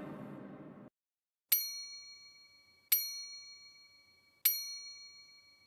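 A bell-like chime dings three times, about a second and a half apart, each strike ringing out with several bright pitches and fading. Before the first ding, the tail of background music dies away.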